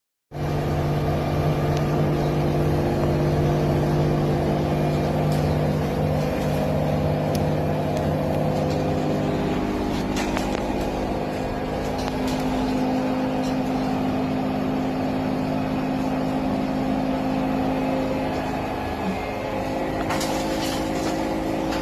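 LG washer-dryer in its spin cycle: a steady motor and drum hum whose pitch shifts about halfway through, with scattered sharp knocks from the drum banging, the fault the machine is being shown for.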